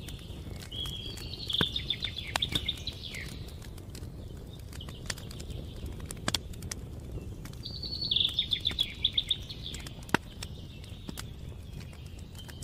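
Campfire crackling with scattered sharp pops, one louder pop near the end. A songbird sings twice, each time a quick trilled phrase of about two seconds.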